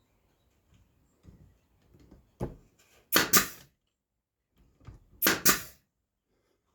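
Brad nailer firing into wood: two quick pairs of sharp shots about two seconds apart, with lighter knocks of boards being positioned before them.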